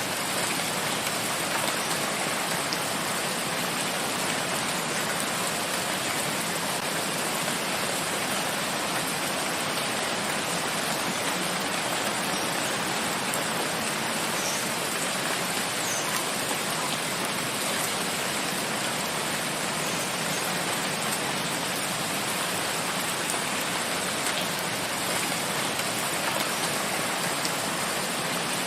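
Steady, heavy rain falling in a forest, an even hiss of rain with no breaks or changes.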